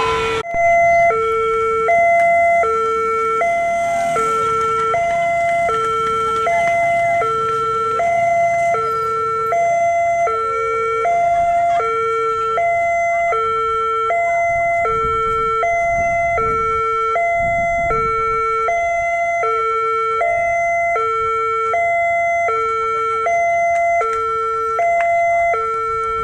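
Railway level-crossing warning alarm sounding, a loud two-tone signal that switches between a lower and a higher tone about every three-quarters of a second, repeating steadily.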